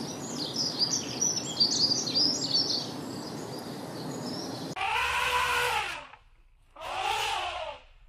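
Small birds chirping over a steady outdoor hiss, then two drawn-out animal calls of about a second each.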